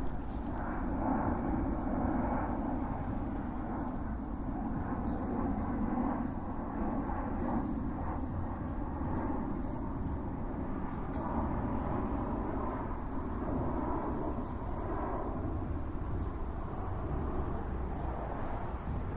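Steady rumble of a fixed-wing airplane's engines overhead, holding at an even level.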